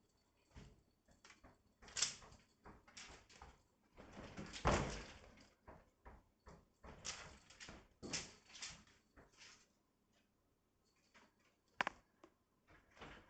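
Irregular knocks, taps and scrapes, as of light objects being bumped and slid about, with a longer scraping rush about four to five seconds in and a sharp knock near the end.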